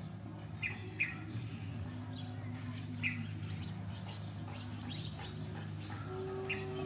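Small birds chirping with scattered short calls, a few in quick succession about a second in, over a steady low hum.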